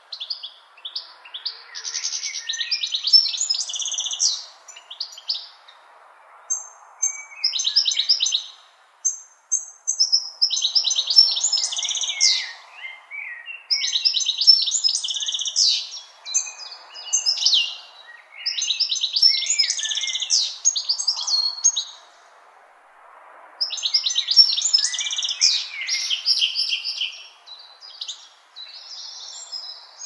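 Songbirds singing in a run of chirping, trilled phrases a few seconds long with short pauses between them, over a faint steady background hiss.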